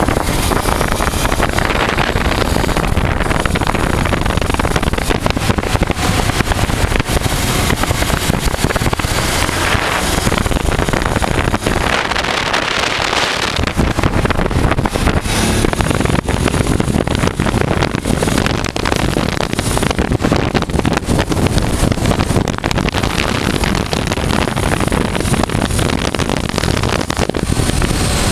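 1988 Honda Transalp V-twin motorcycle running on the road, with heavy wind noise on the microphone. The low rumble drops out briefly about twelve seconds in.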